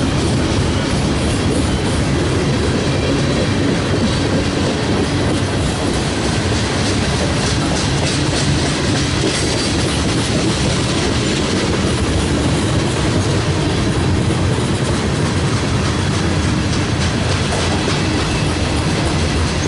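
Train rolling past: a steady rumble of wheels on the rails with a clickety-clack over the rail joints.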